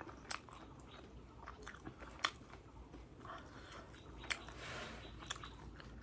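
Someone chewing and biting into crisp fried momos, with scattered sharp crunches and mouth clicks.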